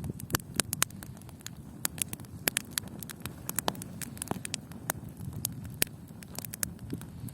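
Wood campfire crackling, with many irregular sharp pops over a low steady rumble.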